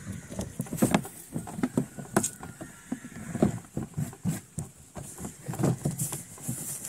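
Irregular knocks, taps and clatters of washing machine parts being handled and fitted during reassembly, several a second and uneven in strength.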